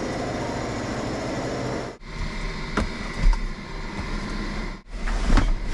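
A power saw cutting a sheet of plexiglass runs steadily for about two seconds and stops at a cut. Low rumble follows, with scattered knocks and clicks of handling.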